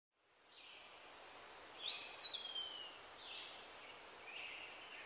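Faint outdoor ambience with birds calling: short high chirps at intervals, and about two seconds in a louder call that rises and then slides down in pitch.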